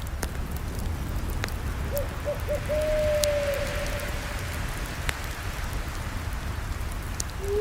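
Campfire crackling: scattered sharp pops over a steady hiss and low rumble of burning. About two seconds in, an animal calls with a few short notes, then one long held note that falls slightly.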